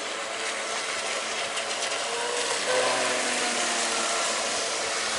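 Electric RC V-hull boat running on the water: a thin motor whine that shifts in pitch about halfway through, over a steady hiss.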